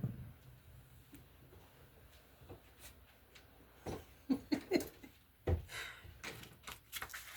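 Quiet room with a few faint knocks and thumps, the clearest about five and a half seconds in, and a brief murmur of voices a little after four seconds.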